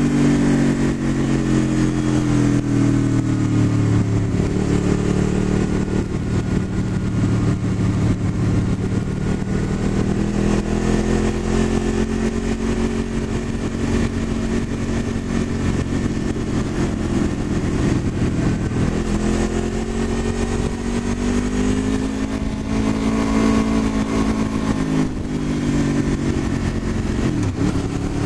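Honda VFR800 motorcycle's V4 engine heard from the rider's seat while riding. The engine speed rises and falls several times over a steady rush of wind noise, with a brief sharp dip and recovery near the end.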